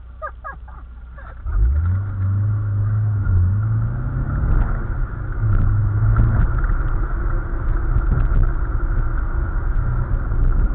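Classic car's engine heard from inside the cabin, pulling away from a standstill about a second and a half in. The note rises through first gear, dips at a gear change near the middle, then the engine runs on steadily under load.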